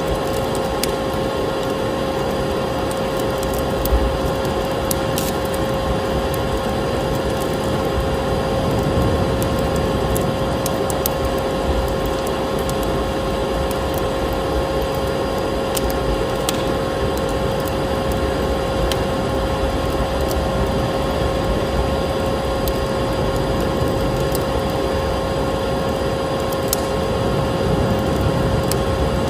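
Vacuum cleaner running steadily with a constant whine, mixed with the irregular crackle and pops of a wood fire in a fireplace.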